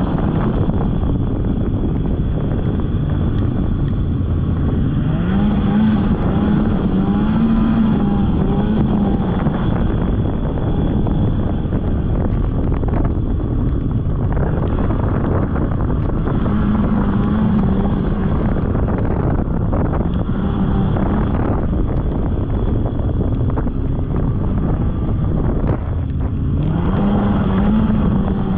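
Snowmobile engine running at riding speed, its note climbing and dropping several times as the throttle is opened and eased, with wind noise on the microphone.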